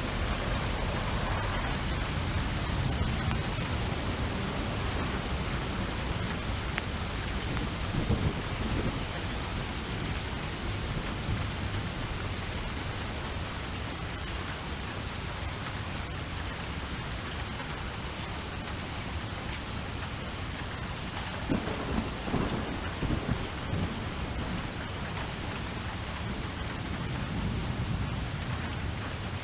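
Steady heavy rain with thunder rumbling low underneath, swelling into louder rolls about 8 seconds in and again about 22 seconds in.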